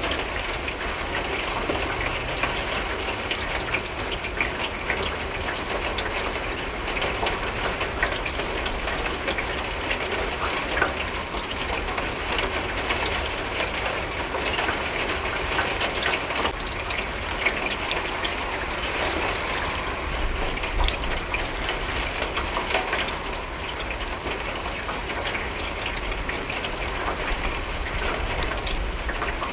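Steady rain with drops pattering on a window pane: a dense, even hiss of many small ticks over a low rumble.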